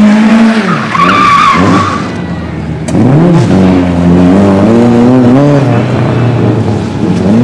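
Racing car engine revving up and down, with a high tyre squeal about a second in.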